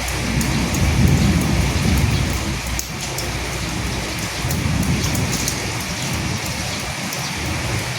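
Steady rain falling, with individual drops pattering through the hiss. A low rumble swells up about a second in and again around five seconds in.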